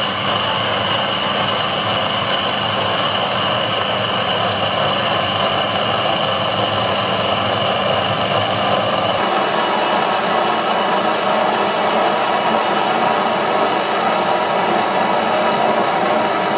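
Proxxon PD 250/E mini lathe running steadily while a DCMT carbide insert takes a turning pass along a steel shaft: a continuous machine whine with a fixed high tone over a hiss of cutting.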